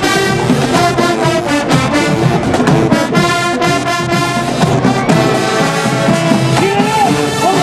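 College marching band playing loud music: full brass with trombones and trumpets over drums, with a few sliding notes near the end.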